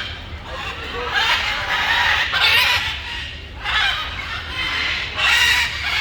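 Chickens calling repeatedly, in several bursts of overlapping calls about a second long.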